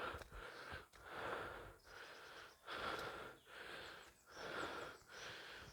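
A person breathing heavily close to the microphone, in and out in a steady rhythm of roughly one breath every second and a half. It is the breathing of someone winded from walking uphill.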